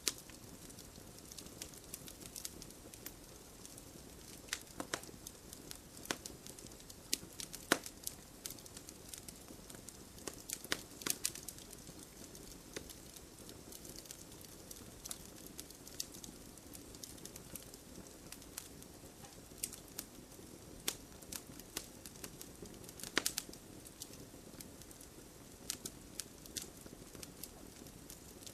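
Wood campfire crackling steadily, with irregular sharp pops and snaps over a low hiss; a few louder pops stand out, about eight seconds in, around eleven seconds, and near the end.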